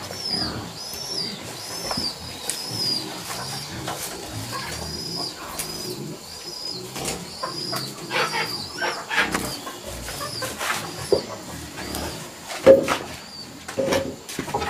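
A bird peeping over and over, short high arched notes about twice a second. From about halfway, scattered knocks and rustles join in, the loudest a single thump near the end.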